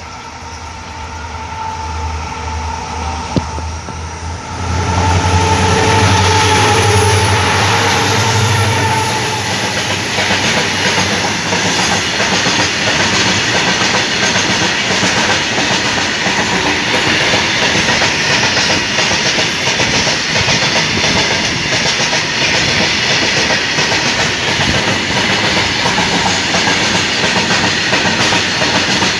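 Twin WDG-4 diesel-electric locomotives (EMD two-stroke diesels) drawing closer with a low engine drone that grows louder, reaching full loudness as they pass about four and a half seconds in. Then a long string of loaded freight wagons runs by with a steady clatter of wheels clicking over rail joints.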